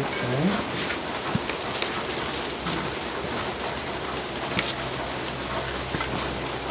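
Steady rain falling, a continuous hiss dotted with sharp individual drop hits.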